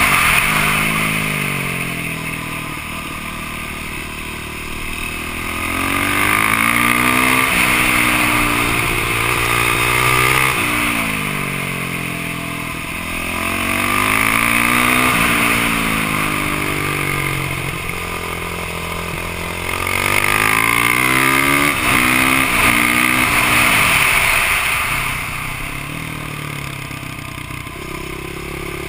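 A Yamaha YZ450F's single-cylinder four-stroke engine, ridden hard. It climbs through the gears in stepped rises on each straight, then drops away off the throttle into the corners, again and again, with wind rushing over the microphone.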